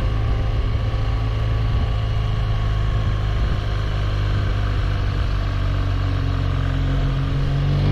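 BMW R1200GS boxer-twin engine running steadily, a low even drone with no change in pitch.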